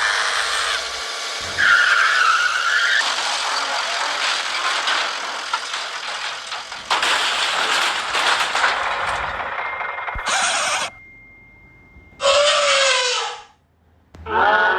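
Vehicle sound effects: a long hissing tyre skid with a brief squeal about two seconds in, followed near the end by three short, separate sounds, the last two pitched and falling.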